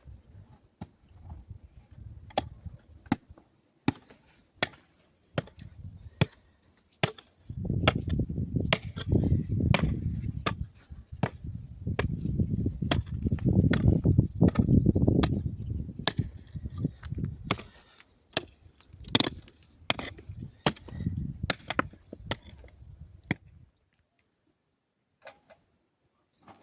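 Repeated sharp hand-tool strikes, irregular, about one or two a second, as of hammering or chopping at stone. A low rumble runs under the strikes through the middle. The work stops about three seconds before the end.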